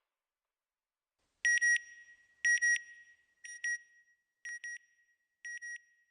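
Electronic double beeps: a high tone sounding in quick pairs about once a second, five pairs, each quieter than the last, after a second and a half of silence.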